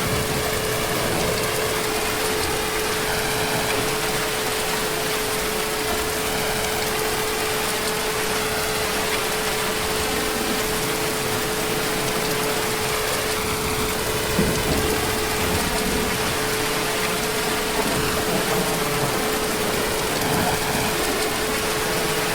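Heavy, steady rain falling without let-up, with a faint steady hum-like tone underneath.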